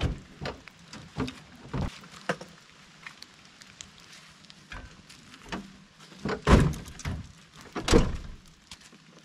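A series of scattered knocks and thuds, with two louder thunks near the end about a second and a half apart.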